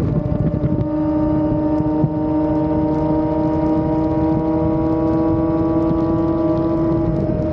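Motorcycle engine running at steady revs while riding, a constant pitched drone over wind and road rumble.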